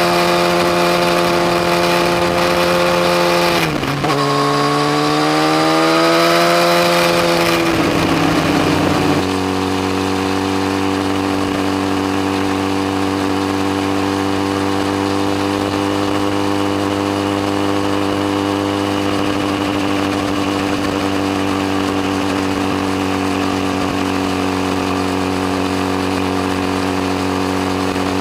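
Yamaha FZ1's inline-four engine running at high revs, with a brief sharp dip in pitch about four seconds in, then falling in pitch around nine seconds in and holding a steady, even note.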